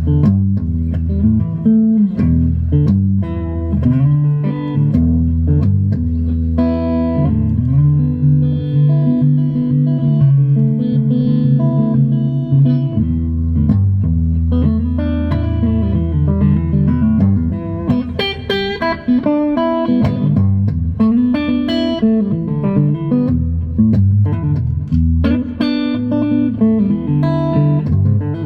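Epiphone Emperor Swingster hollowbody archtop electric guitar being played, a run of single notes and chords over sustained low notes.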